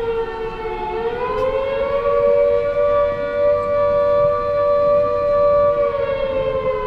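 Outdoor warning siren wailing on two close tones; the pitch climbs about a second in, holds steady, then starts to fall near the end.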